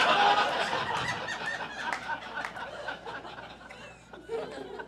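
Audience laughing, loud at first and dying away over about four seconds.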